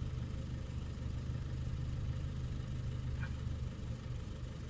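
Renault Clio 2's petrol engine idling steadily, sounding tappety: its tappets still need adjusting.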